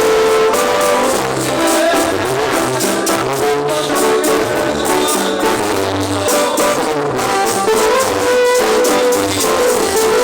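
Mexican banda music in an instrumental passage: a brass section of trumpets and trombones playing a held melody over short, steady bass notes.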